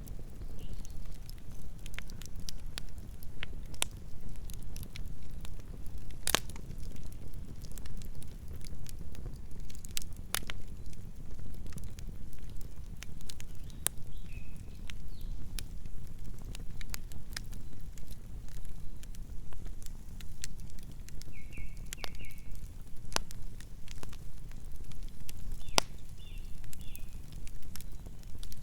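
Wood fire burning with a steady low rumble and irregular sharp crackles and pops. A few brief high squeaks come near the middle and towards the end.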